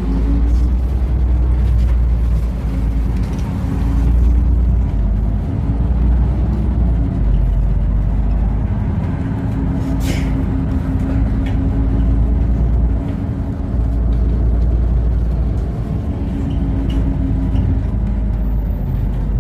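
LiAZ 5292.65 low-floor city bus driving, heard from inside the passenger cabin: a loud, steady low rumble from the engine and road, with a drivetrain whine that rises and falls in pitch as the bus speeds up and slows. One brief sharp sound about ten seconds in.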